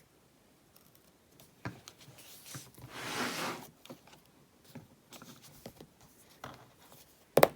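Paper and craft tape being handled on a desk: small taps and clicks, a brief rustling swish about three seconds in, and a sharp tap near the end.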